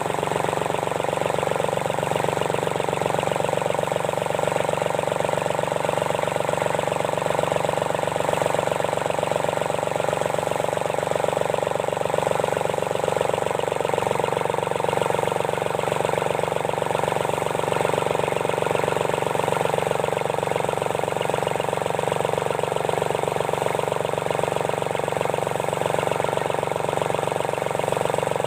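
Sunshine L1-255 tractor's D1462-TV diesel engine running steadily with an even, rapid beat, freshly rebuilt with new valve seats and piston rings to cure its noise.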